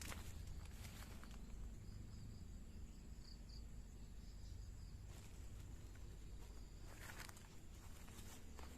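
Faint outdoor ambience of insects chirping steadily in the forest over a low rumble, with a rustling footstep at the start and another couple about seven seconds in.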